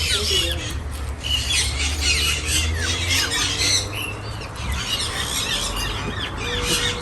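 A flock of aviary birds squawking and chirping over one another in quick, overlapping calls as they crowd around to feed on seed.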